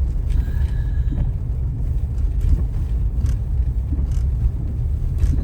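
A car driving on a snow-covered road, heard from inside the cabin: a steady low rumble of engine and tyre noise, with a few faint ticks.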